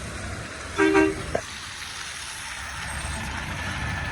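A short vehicle horn honk about a second in, over the low rumble of truck engines in the yard, followed by a brief click.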